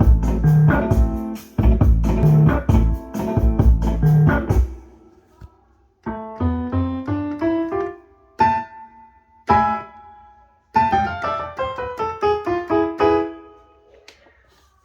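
Korg Pa800 arranger keyboard: an accompaniment with drums, bass and chords plays for about five seconds and stops, then piano-like notes are played in runs stepping up and down. The playing is meant to show a sound problem with the keyboard.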